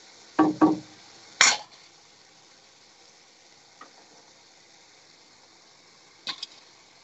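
Chopped tomatoes and capsicum frying in a pan with a faint, steady sizzle. There are three short, sharp sounds in the first second and a half, the last one the loudest. A small click follows, and two quick clicks come near the end.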